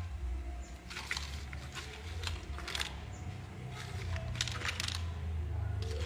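Carpentry handling noise: scattered light clicks and taps at irregular intervals over a steady low hum.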